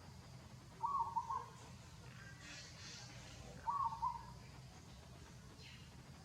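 A bird calling outdoors: a short call of a few quick joined notes, given twice about three seconds apart, with faint high chirps between.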